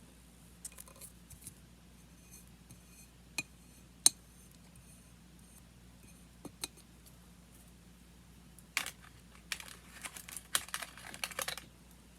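Paper being handled close up: scattered light clicks and taps, then a few seconds of crisp rustling and crinkling near the end.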